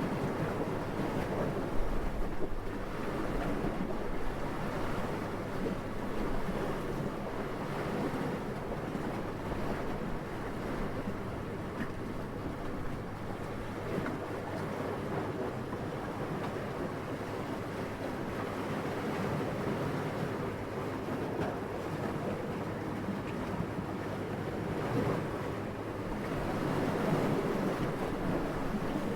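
Steady wind blowing, swelling and easing slowly in soft gusts, a little stronger near the end.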